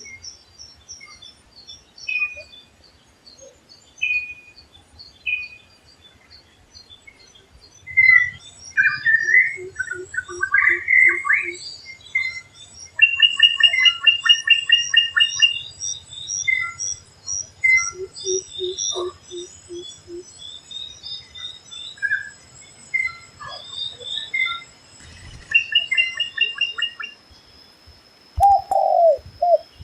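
Several forest birds calling over one another, with a drongo among them: short high chirps and whistles, a fast chattering trill twice, and runs of five or six low hooting notes three times.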